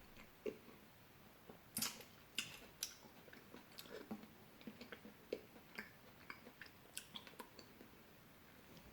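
Close-up mouth sounds of someone eating fresh fruit: irregular wet smacks, bites and chewing clicks, a few louder bites about two seconds in.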